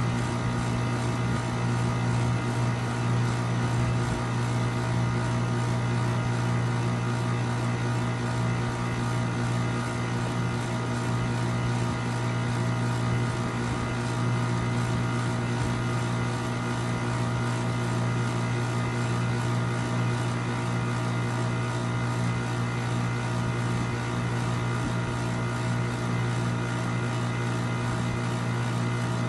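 A steady mechanical drone with a strong low hum and several constant higher tones, unchanging throughout.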